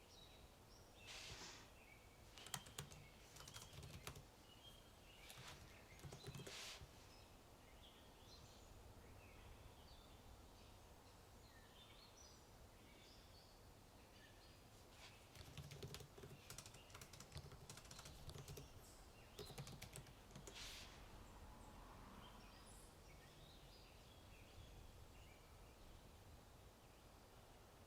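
Typing on a computer keyboard in two spells of quick key clicks, over quiet outdoor ambience with small bird chirps.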